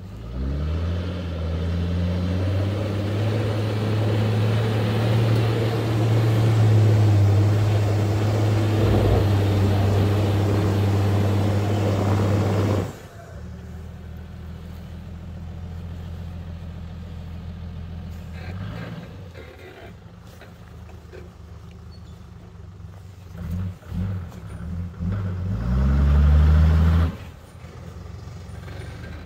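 Car engine accelerating and then running steadily under load. After about 13 s it drops abruptly to a lower, quieter hum. Near the end it revs up again briefly and then cuts off sharply.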